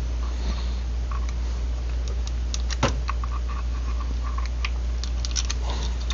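Light clicks and taps of small metal parts and tools being handled on a workbench, with one sharper click about three seconds in, over a steady low hum.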